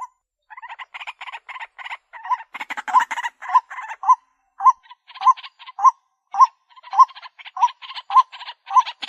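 White-breasted waterhen calling: a loud note with a rising hook repeats a little under twice a second over rapid, rough clattering pulses. The call starts after a short pause and grows stronger about two and a half seconds in.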